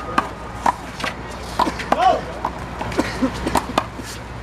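A rally of one-wall handball: the big blue rubber ball being slapped by hands and smacking off the wall and ground in a run of sharp, irregularly spaced hits.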